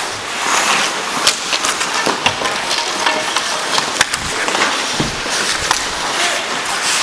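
Ice hockey play: skate blades scraping and carving the ice, with many sharp clacks of sticks and puck.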